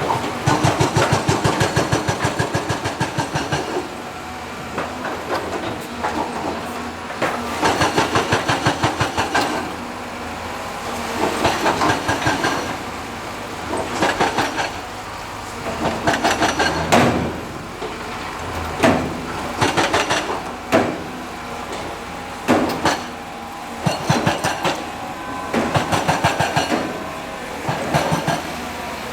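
Heavy construction machinery working. It comes in repeated bouts of rapid clattering, each two to three seconds long, with single sharp knocks between them in the middle stretch.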